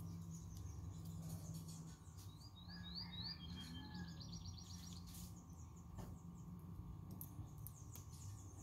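Faint bird chirping in the background: a quick run of short chirps about two to five seconds in, over a low steady hum and a few faint clicks.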